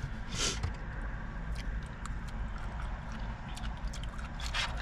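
Eating from a takeout container: scattered light clicks and short rustles of utensils and packaging over a steady low hum.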